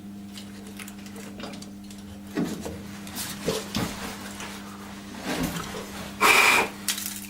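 Steady electric motor hum of a workshop machine running, with scattered light metallic knocks and clicks, and a short loud burst a little before the end.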